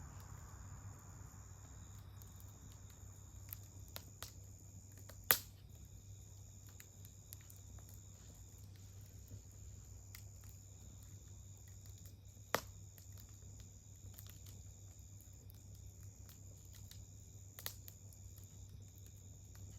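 Campfire burning with scattered crackles and sharp pops of burning wood, the loudest pop about five seconds in, another about twelve seconds in and a smaller one near the end. A steady high-pitched whine runs underneath.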